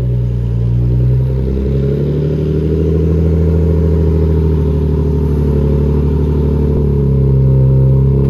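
Lexus IS sedan's engine idling steadily while it warms up, with a low even hum whose pitch shifts slightly a couple of times.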